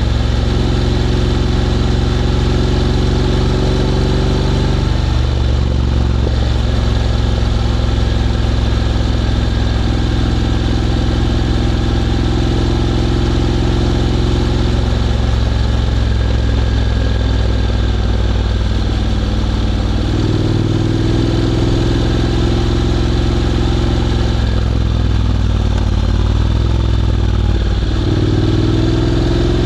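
Honda X-ADV 750's parallel-twin engine through an SC-Project titanium slip-on exhaust, running steadily at low revs. Its note shifts a few times as the throttle changes and rises near the end.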